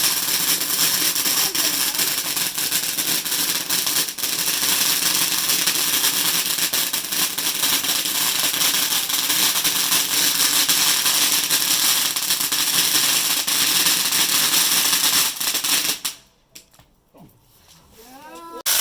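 Firework giving off a dense, steady crackling hiss that cuts out suddenly about sixteen seconds in.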